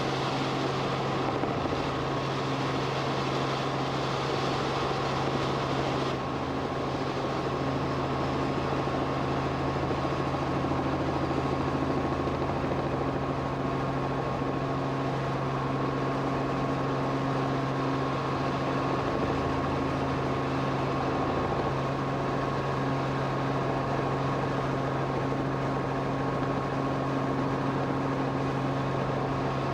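Steady drone of an aircraft in flight, heard from on board: a constant low hum with a thin steady whine above it, under a haze of engine and wind noise.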